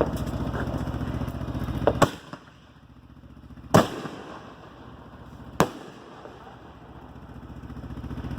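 Old fireworks going off: a couple of small pops, then three loud, sharp bangs about two seconds apart. Underneath, an engine runs with an even beat, fading out after the first bang and coming back near the end.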